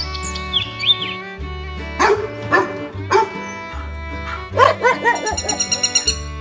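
Dog barking three times about half a second apart, starting about two seconds in, then a quick run of higher yips near the end, over background music. A few bird chirps come in the first second.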